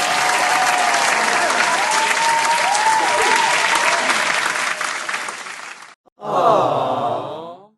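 Applause sound effect: a crowd clapping steadily, with a few whistles over it, cutting off abruptly about six seconds in. A separate short sound effect follows near the end, a pitched sound that falls in pitch.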